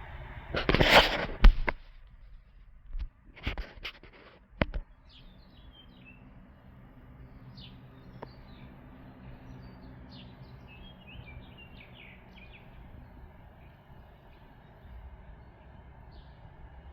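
Several loud bumps and rustles in the first few seconds, then small birds chirping in short, scattered calls over a steady outdoor background.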